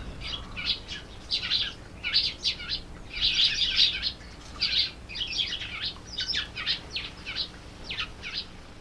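Small wild birds chirping: many short, quick chirps in clusters, repeated throughout with brief gaps.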